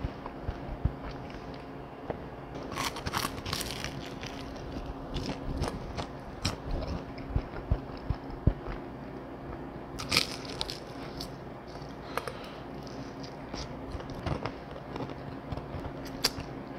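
Crunching and chewing of crispy fried chicken: irregular crunches throughout, with louder bites about three seconds in, about ten seconds in, and near the end.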